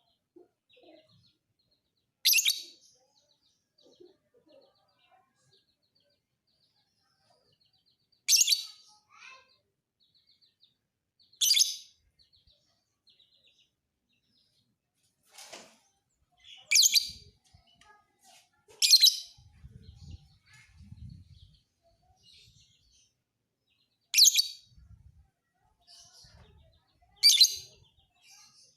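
Lovebird giving short, loud, shrill chirps, about seven bursts spaced a few seconds apart, with faint softer chirping in between.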